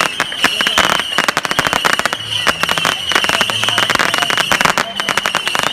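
Fireworks display going off with dense, rapid crackling bangs, many per second, and a steady high whistle running through them.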